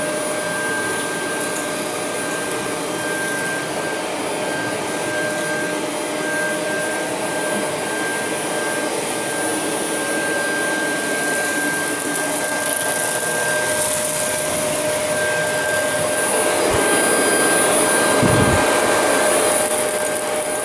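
Shark Professional vacuum cleaner running steadily with a high whine, sucking up bird mess; it gets a little louder over the last few seconds.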